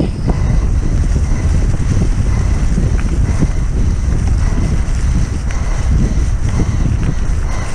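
Mountain bike descending rough ground at speed: wind rushing over the microphone with a constant low rumble and the rattle and knocks of the bike over the terrain.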